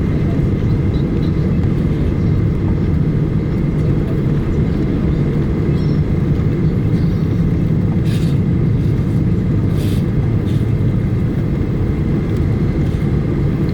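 Boeing 737-800 cabin noise on the ground before takeoff: a steady low rumble from the CFM56-7B engines at ground power, with a faint steady whine. Two faint ticks come about eight and ten seconds in.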